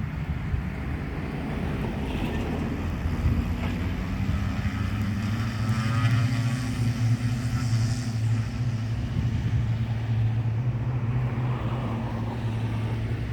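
Twin-engine plane's engines running steadily, swelling louder around the middle with a sweeping shift in tone, then easing slightly.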